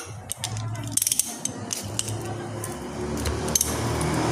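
Scattered metallic clicks and clinks of hand tools on the power steering pump's bolts and housing, with a cluster about a second in. Under them runs a steady low hum that grows louder near the end.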